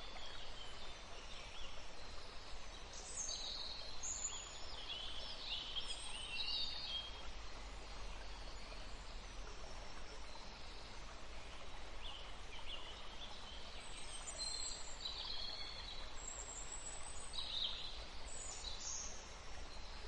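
Birds calling in short chirps and whistles, coming in scattered groups, over a faint steady low background hum.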